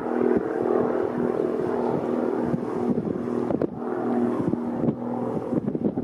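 Airbus A330-300 jet engines running steadily at idle as the airliner taxis, a steady hum with a low drone. From about three seconds in, gusty wind buffets the microphone in irregular flutters.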